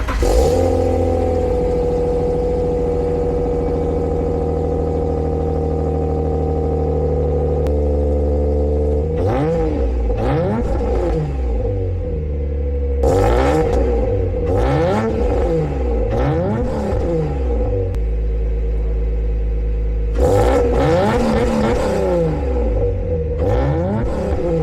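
Subaru Legacy 3.0R's EZ30R flat-six through an aftermarket exhaust (Raptor headers, MagnaFlow high-flow cats and X-pipe, Kakimoto Racing Regu06&R mufflers), idling steadily for about nine seconds, then revved in three clusters of quick throttle blips, the pitch rising and falling with each blip.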